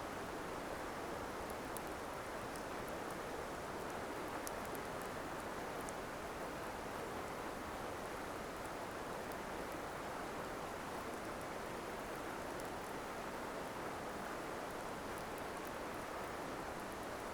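Campfire burning, with scattered faint sharp crackles of burning wood over a steady rushing background noise.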